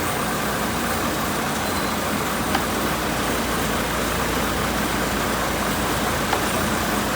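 Truck engine running with a steady wash of vehicle noise and a low hum, broken only by two faint clicks.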